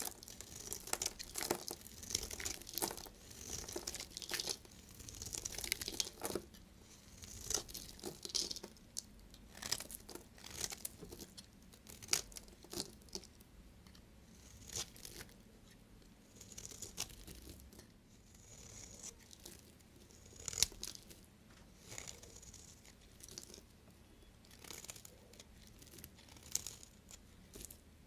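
A knife cutting through bars of soap: a crisp, crackling scrape with each cut, in a long series of short strokes about one a second.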